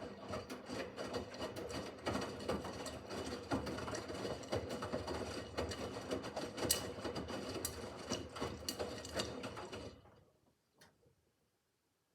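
Miele W5801 WPS washing machine running, with a dense rattling and clicking of the drum and the laundry turning inside it. The sound stops abruptly about ten seconds in.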